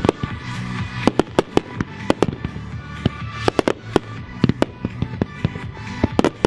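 Fireworks going off in a rapid, irregular string of sharp bangs, about three a second, some louder than others.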